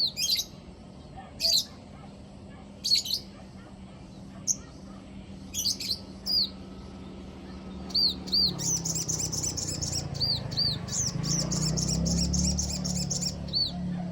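Sogon bird singing as a lure call: short, high arching chirps in clusters about every second and a half, then a quicker run of repeated notes from about halfway through. A low hum grows underneath in the second half.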